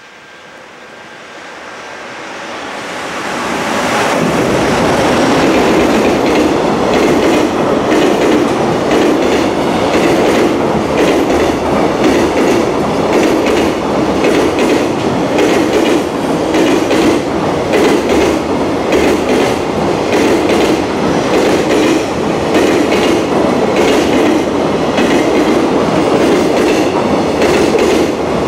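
JR Freight container train passing close by. The rumble builds over the first few seconds as it arrives, then holds loud and steady as the wagons run past, with a constant clickety-clack of wheels striking the rail joints.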